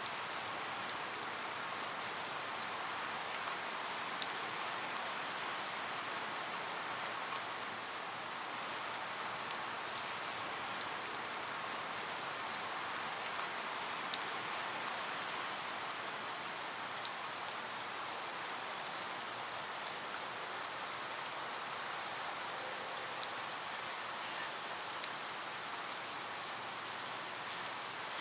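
Steady rain falling, an even hiss with scattered sharp drips and drop ticks landing on a surface.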